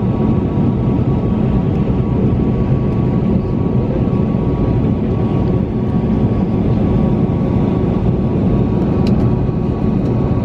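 Steady cabin noise of an Airbus A321neo taxiing after landing: a constant rumble with a faint steady whine from the engines at low power.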